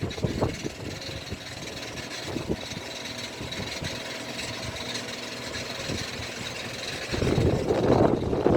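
A steady engine drone with a faint high whine over it. About seven seconds in, a louder rumble comes in suddenly.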